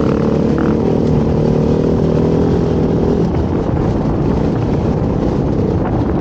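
Dirt bike engine running while riding, holding a steady pitch for about three seconds and then turning rougher and less even.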